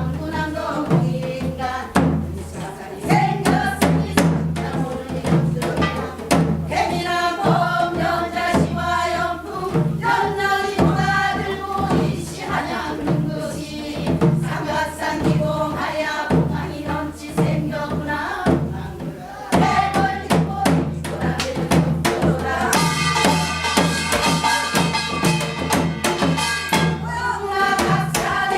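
Korean gyeongseodo sori folk song sung with drum accompaniment: wavering, bending sung notes over regular drum strokes.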